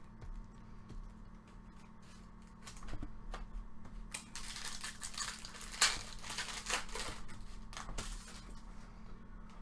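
Trading cards and their pack wrapper being handled: a few light clicks, then from about four seconds in a busy run of crinkling and rustling.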